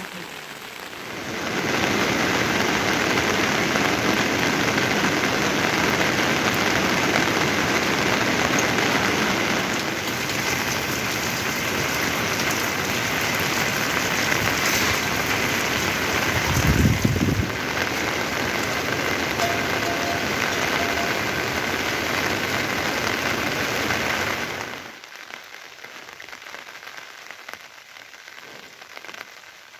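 Heavy rain falling steadily, with a brief low rumble a little past halfway. About 25 seconds in it drops abruptly to a much lighter patter.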